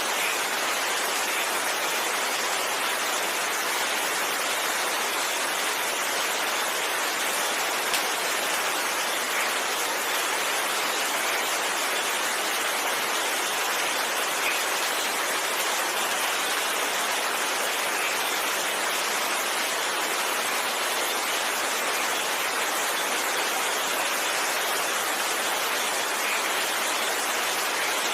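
Steady rain falling, an even hiss with a single small tap about eight seconds in.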